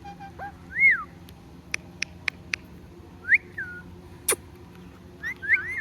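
Parrot whistling: two short whistles that swoop up and down, with a run of four sharp clicks between them and another click after, and a further whistled phrase starting near the end.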